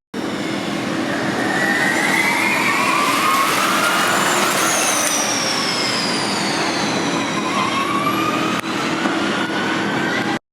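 Formula E electric race cars driving past, their drivetrains giving a high whine that rises in pitch as they accelerate and falls away as they pass, over steady tyre and track noise. Several such whines overlap.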